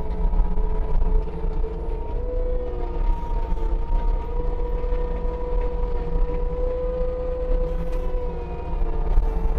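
Case TV450 compact track loader running hard: a steady diesel rumble under a high, steady whine that wavers slightly in pitch.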